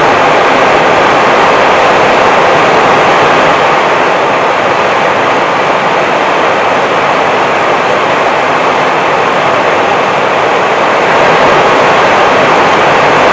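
Steady rushing noise on the flight deck of an Airbus A320 in flight, with no pitch changes or breaks.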